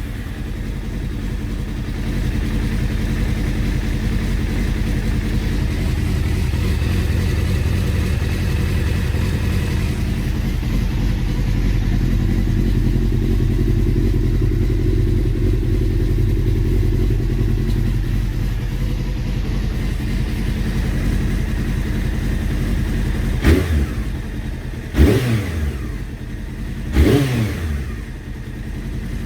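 Honda CBR600F3 inline four-cylinder engine idling, not yet fully warm, with a slightly lumpy idle that the owner now puts down to carburettors needing synchronising. Near the end the throttle is blipped three times, the revs rising and dropping back quickly each time.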